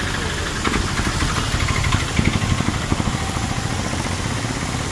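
A motor vehicle engine idling with a steady low rumble, with some irregular rattling during the first few seconds.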